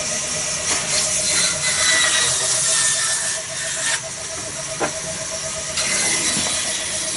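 Petter diesel engine running steadily with an even pulsing beat and a strong high hiss, with a sharp click about five seconds in.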